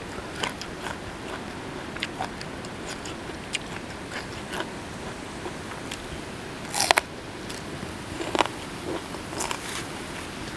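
Close-up biting and chewing of golden apple snail salad: wet mouth clicks and small crunches, with a few louder sharp crunches about two thirds of the way through as the crunchy snail meat is bitten.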